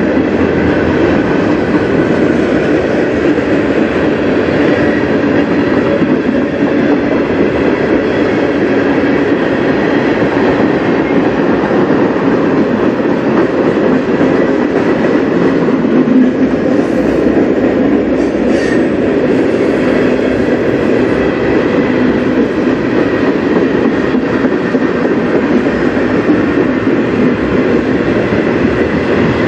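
Freight cars of a CN manifest train rolling steadily past, their steel wheels running on the rails.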